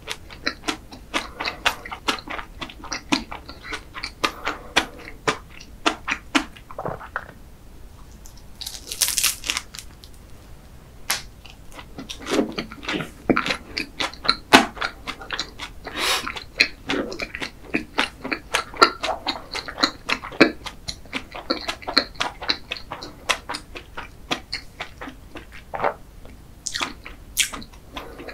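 Close-miked wet chewing and lip smacking of a soft chocolate-glazed pastry: a steady run of small clicks and squelches, with a brief hiss about nine seconds in.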